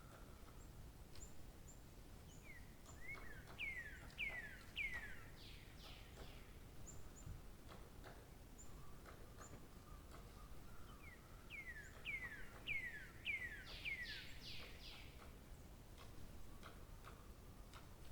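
A songbird singing two phrases about ten seconds apart, each a quick run of five or six downward-slurred whistled notes, with faint short high chirps in between over a low background hiss.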